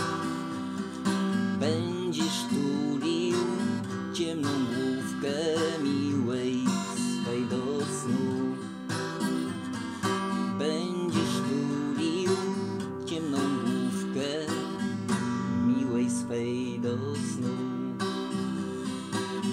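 Instrumental passage of the song: acoustic guitar strumming, with a melody line carried over it.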